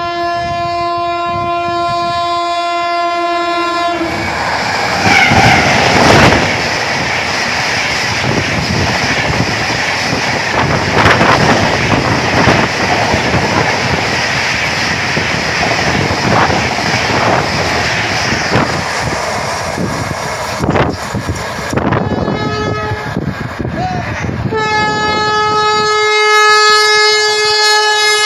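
An electric locomotive's horn sounds a steady chord for about four seconds, then the WAP-7-hauled Humsafar Express passes at about 130 km/h with a loud rush of wind and rolling stock and the clickety-clack of wheels over rail joints. About twenty-five seconds in, the approaching Vande Bharat Express sounds a long, steady horn that carries on to the end.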